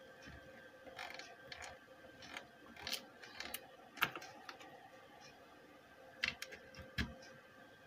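Scattered clicks and taps from the controls of a Geesonic car stereo being pressed and turned while it is switched on; the unit itself puts out no sound, not even a hum, the sign of a failed audio amplifier stage.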